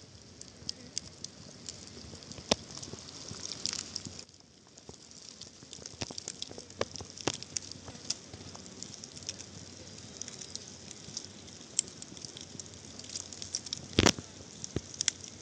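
Wood campfire crackling: irregular sharp pops over a steady hiss, with one louder pop near the end.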